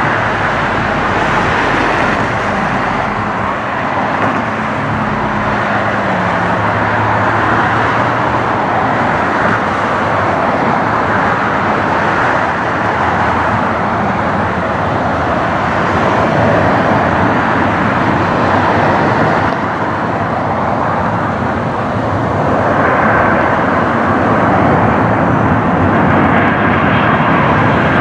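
Jet airliner engines running, a loud steady noise with no break.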